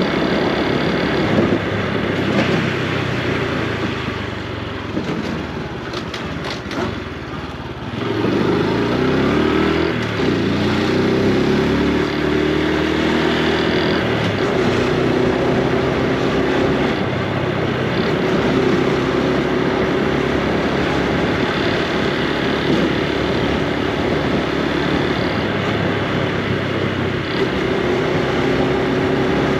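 Honda Super Cub C125's single-cylinder four-stroke engine and exhaust while riding. The engine eases off for a few seconds, then from about eight seconds in the revs climb in several rising sweeps as it accelerates through the gears, and it settles into a steady cruise.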